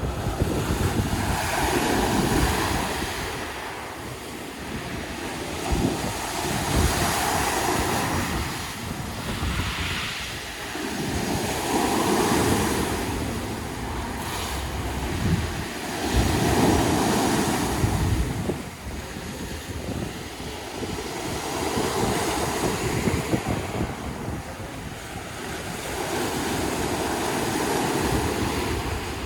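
Sea waves breaking and washing up a beach, swelling and fading about every five seconds, with wind rumbling on the microphone.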